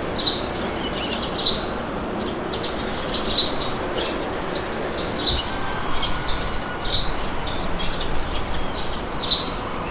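Steady wind blowing, with small birds chirping in short repeated calls over it.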